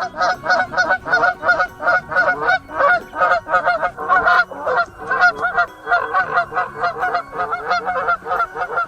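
Goose honking: short nasal honks repeated several times a second without a break.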